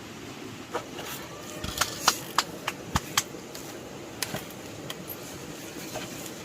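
A series of irregular sharp clicks and knocks, bunched together in the middle of the stretch, over a low background hiss.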